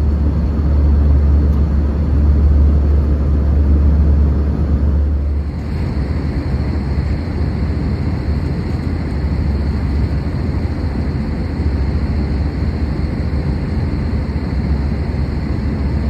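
Steady airliner cabin noise inside an Airbus A320: a deep rumble with a rush of air and engine noise. About five seconds in it changes abruptly to a slightly quieter, hissier mix.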